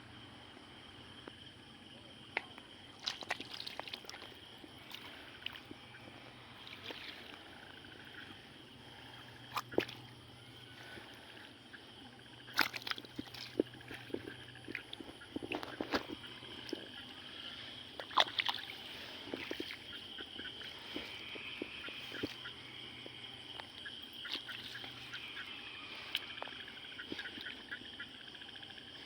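Water sloshing, with scattered short splashes from fishing in shallow water at night. A steady high-pitched drone of night insects runs underneath.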